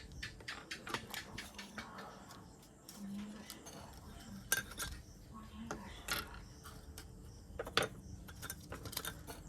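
Small tools and parts being handled during the repair of an LED inverter light: scattered, irregular light clicks and clinks of hard objects, with a few sharper taps about four and a half seconds in and again near eight seconds.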